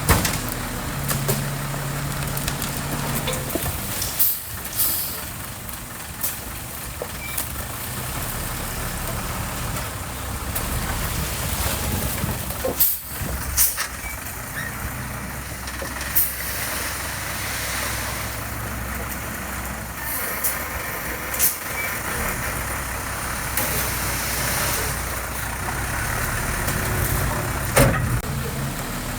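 Diesel engine of heavy construction machinery running steadily, with several sharp clanks along the way.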